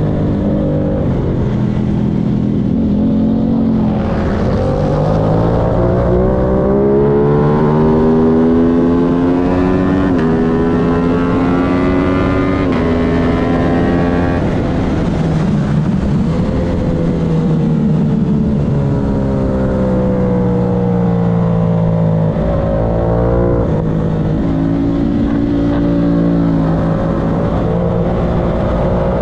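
Aprilia racing motorcycle engine under hard acceleration, its pitch climbing through the gears with a sharp drop at each upshift several times in the first half. Around the middle the revs fall as it brakes and downshifts, then climb again near the end.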